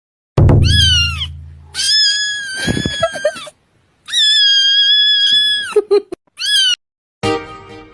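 A cat meowing: a short meow, two long drawn-out meows and another short one. A deep boom sounds at the first meow, and plucked-string music starts near the end.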